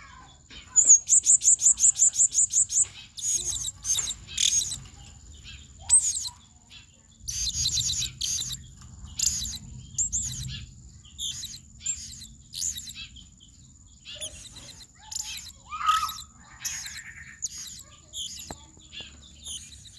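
Blue-crowned hanging parrot (serindit) calling hard: a fast run of high, evenly repeated notes about a second in, then a long string of short, sharp, high-pitched chirps. A faint steady high tone runs behind the calls.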